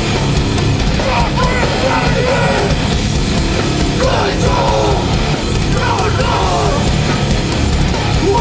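Hardcore band playing live at full volume, with heavy distorted instruments and drums under shouted vocals.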